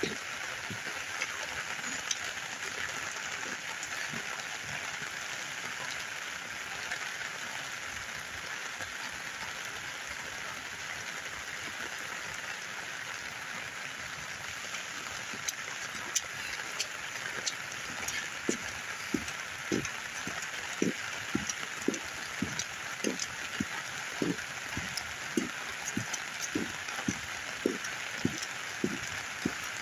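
Steady rain falling, mixed with the rush of floodwater running down an arroyo. From a little past the halfway point comes a regular run of soft thuds, a bit more than one a second.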